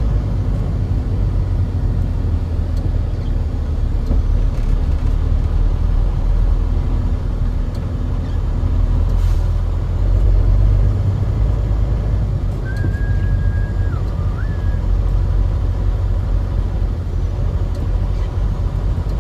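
Steady low rumble of a truck running down the road. About two-thirds of the way through, a brief high tone sounds, dips, then returns.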